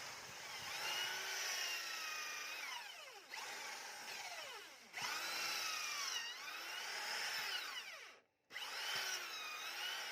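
Electric power tool running on metal, its motor pitch dipping and rising as the load changes, in several stretches that stop and restart abruptly.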